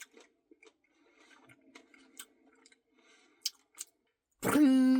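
Close-miked eating of a soft ice cream Blizzard: faint wet mouth clicks and chewing crackles. Near the end a loud held hum, steady and then dropping in pitch.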